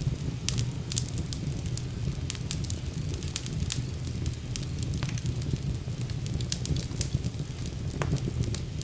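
Wood fire burning in a fireplace: a steady low rumble of the flames with frequent sharp crackles and pops throughout.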